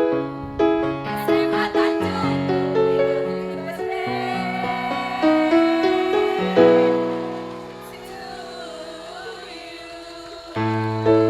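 Women's choir singing with keyboard accompaniment. The voices hold a long note with vibrato that fades out, and the keyboard comes back in with a loud low chord near the end.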